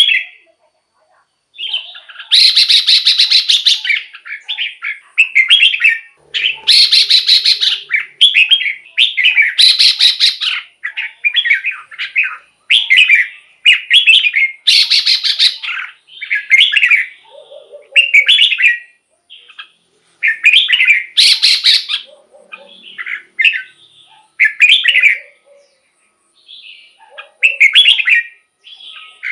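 Red-whiskered bulbul singing: a steady run of short whistled phrases, one after another with brief pauses between them. Some phrases are louder and harsher than the rest.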